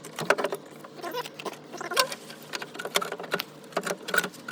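Irregular metallic clicks, knocks and small rattles of a car alternator being handled and worked loose in the engine bay, just after its mounting bolts and pulley have come off.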